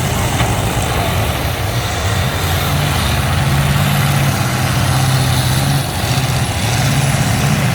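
Demolition-derby truck engines running, a steady loud low drone whose pitch shifts slightly as the drivers work the throttle.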